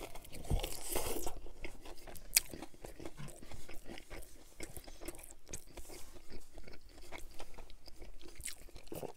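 A crisp crunch of extra-crispy fried chicken breading as a bite is taken, then a run of crunchy close-up chewing with many small irregular crackles.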